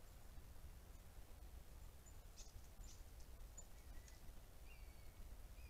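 Near silence with a few faint, short bird chirps, mostly in the second half.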